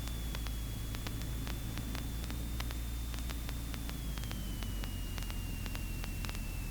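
Cessna Cardinal 177B's engine and propeller droning steadily, heard through the cockpit intercom with static hiss and frequent faint clicks. A faint high whine drops slowly in pitch in the second half.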